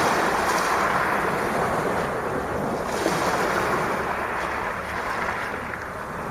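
Sea waves breaking on a shingle beach: a wash of surf that is loudest at the start and slowly ebbs away.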